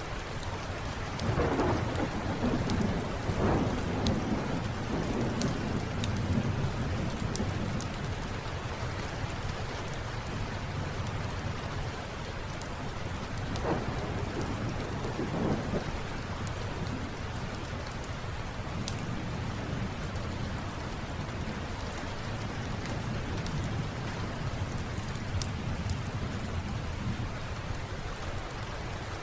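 Steady rain with low rolls of thunder: a long roll in the first few seconds and a weaker one about halfway through, over scattered faint crackles.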